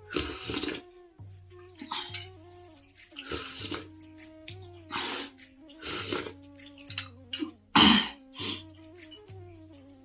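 Repeated wet slurps of instant noodle soup, about ten short bursts, the loudest a little before the end, over soft background music with a slow pulsing beat.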